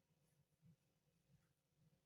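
Near silence: room tone with faint low rumbles.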